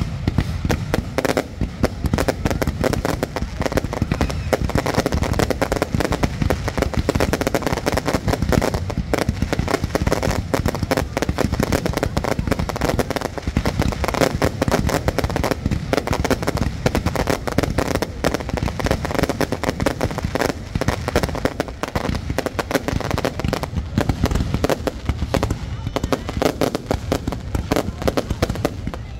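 Fireworks display going off continuously, a dense run of rapid bangs and crackles with no pause.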